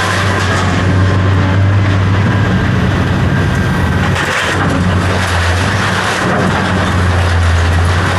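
A motor vehicle running steadily, a constant low drone with an even noise over it.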